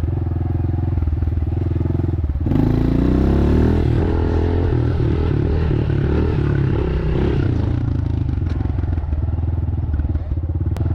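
Pit bike's small single-cylinder engine running steadily, then revving up with a rising pitch about two and a half seconds in. The pitch wavers for a few seconds and settles back to a steady run near the end.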